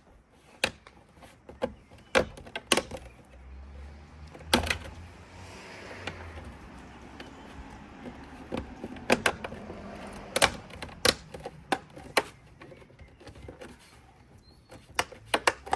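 Sharp plastic clicks and knocks, irregular and a dozen or more, as a BMW X5 wing mirror cover is handled and pressed into place, with a soft rustling hiss and low rumble through the middle.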